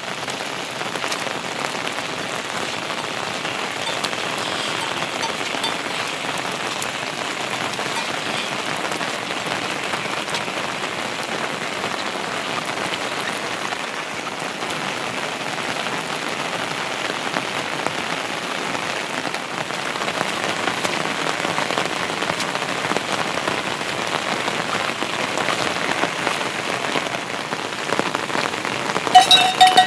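Heavy monsoon rain falling steadily, a dense even hiss with the ticks of individual drops. Near the end there is a brief cluster of louder, sharper sounds.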